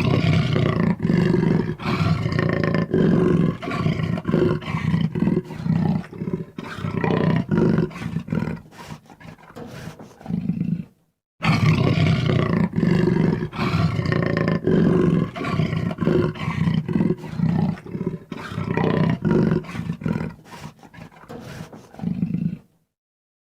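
Jaguar roaring in a dense, continuous run of calls, in two bouts of about eleven seconds each with a brief silent break between them.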